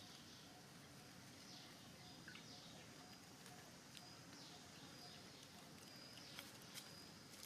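Near silence: quiet outdoor ambience with a few faint, high chirps that slide downward, and a thin high whistle in the second half.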